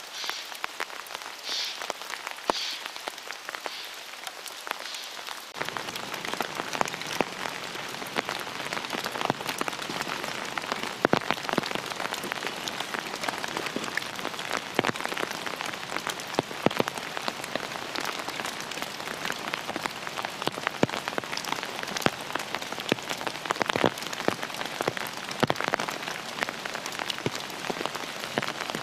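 Steady rain falling on an open umbrella, with many sharp individual drop ticks over an even hiss, the sound growing fuller about five seconds in.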